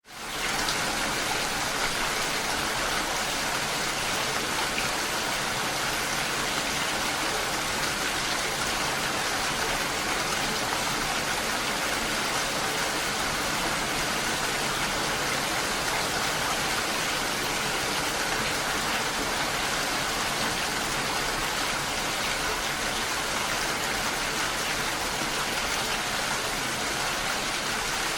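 Steady rain falling, an even hiss with no separate drops standing out. It fades up from silence in the first second.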